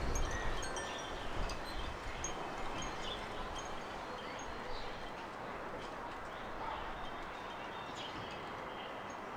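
Small garden birds chirping in short, high calls over a steady outdoor hiss, with a wind chime's ringing tones dying away in the first second or so.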